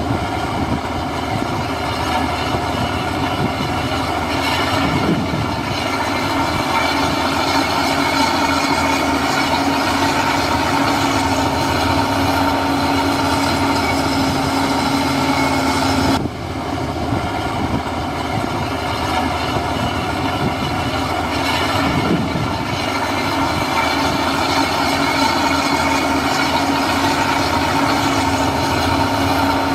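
Heavy diesel earthmoving machine running steadily, a constant engine drone with a steady whine. The sound dips briefly about sixteen seconds in, then carries on the same.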